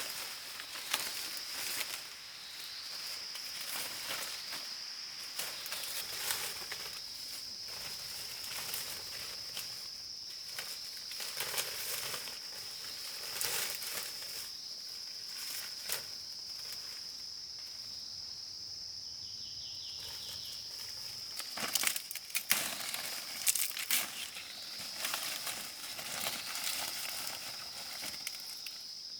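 Steady high-pitched drone of insects in the forest, with intermittent rustling and crackling in dry vegetation on top. A burst of sharper cracks and knocks comes a little past two-thirds of the way in.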